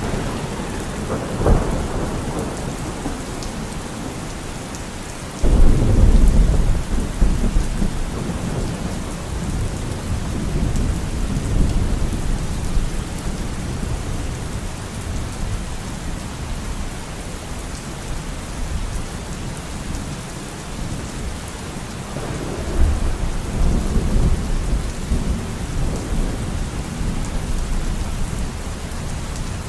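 Steady rain with rolling thunder. There is a short crack about a second and a half in, then a sudden loud rumble a little after five seconds that rolls off over several seconds, and another rumble in the last third.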